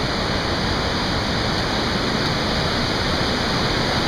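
Steady roar of a waterfall close by, an even rushing of falling water with no let-up.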